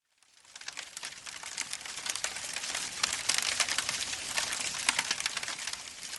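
Rain pattering densely, many small fine hits, fading in at the start and fading out at the end.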